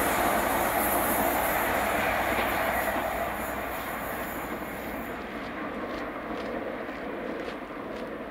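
Passing train, loud at first, then fading steadily over the last few seconds as it moves away.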